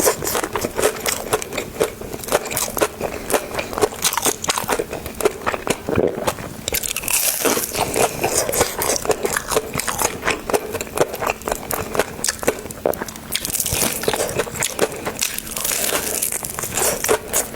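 Close-miked eating sounds: a person biting and chewing crunchy food, with a dense, irregular run of crisp crunches and clicks.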